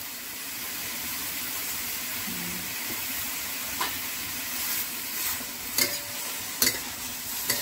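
Pork cubes and ginger sautéing in oil in a wok, a steady sizzle. In the second half come a few sharp clicks of a metal spatula against the wok as the meat is stirred.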